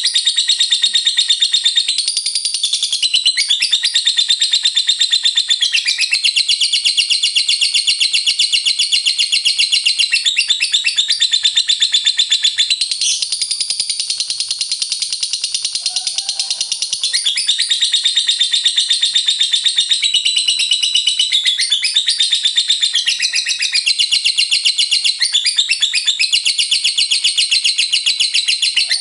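Lovebird singing 'ngekek': a long, unbroken chattering trill of rapid high notes. The pattern shifts every few seconds without a pause.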